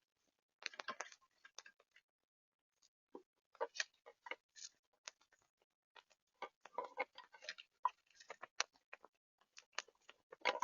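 Irregular sharp clicks and taps at a bird feeder, some single and some in quick clusters, from birds and squirrels pecking and picking at the seed.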